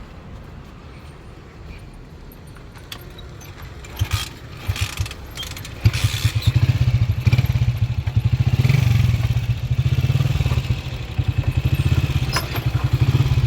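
Motorcycle engine starting after a few clunks and surges about four seconds in, catching about six seconds in and then running with a fast, even beat.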